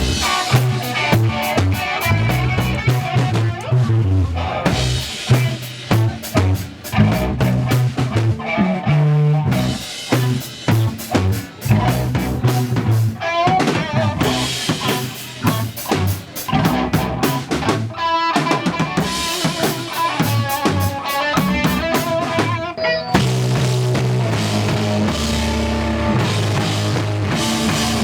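Punk band playing live: fast drum kit with bass and electric guitar, breaking off briefly several times and settling into a steadier, denser section near the end.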